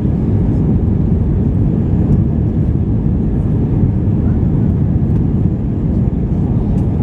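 Steady low rumble inside the passenger cabin of an Airbus A319 airliner in flight: jet engine and airflow noise, even and unchanging.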